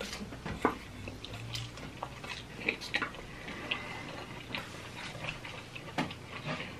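Close-up chewing and mouth smacking from people eating fried mozzarella sticks: a scatter of short, irregular clicks and smacks.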